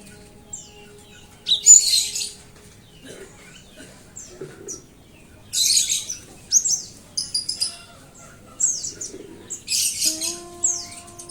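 Cinereous tit (gelatik batu) singing and calling: quick high chirps and short falling whistles, with three louder bursts of dense chattering about two, six and ten seconds in.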